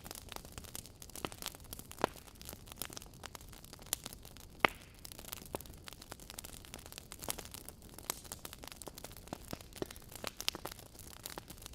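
Wood fire burning in a fireplace: logs crackling with irregular sharp pops over a soft steady hiss, one louder pop near the middle.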